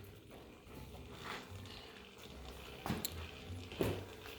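A few faint, short knocks and clicks of tools and metal parts being handled, the louder ones about three and almost four seconds in. There is no steady power-tool sound: the angle grinder for the weld has not started.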